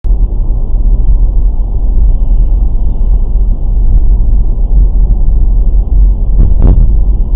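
Low road and engine rumble of a moving car, picked up by a dashcam microphone inside the car, with a short louder thump near the end.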